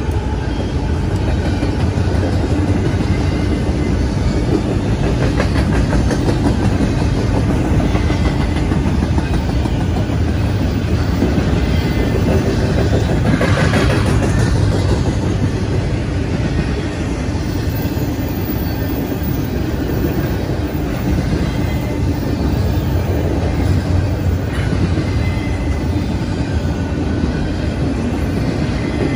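A train rolling steadily past close by: a continuous rumble of wheels running on the rails, keeping up through the whole stretch with no break.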